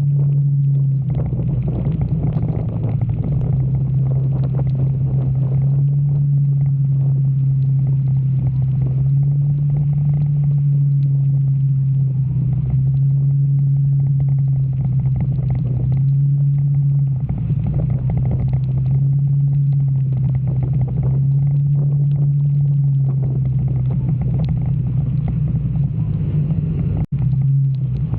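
Motorcycle engine running steadily while riding, its low hum dipping and rising slightly in pitch every few seconds, under wind and rain noise on the microphone. The sound cuts out for an instant near the end.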